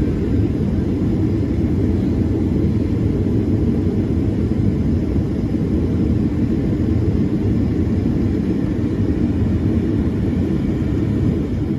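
Steady low rumble of an airliner's engines, unchanging throughout.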